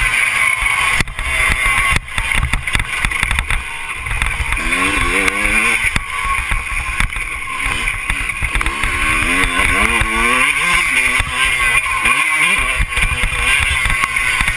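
Motocross bike engine revving, its pitch climbing and falling several times, under a steady rushing noise with occasional sharp knocks.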